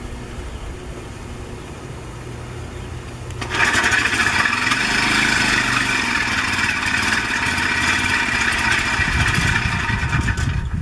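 A low steady hum, then about a third of the way in a small motor-driven machine switches on and runs loudly and steadily with a whining rush, stopping suddenly near the end.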